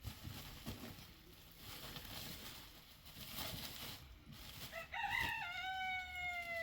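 A rooster crowing once, starting about five seconds in: a short rise, then a long drawn-out note that slowly falls. Before it, only faint scattered knocks and rustling.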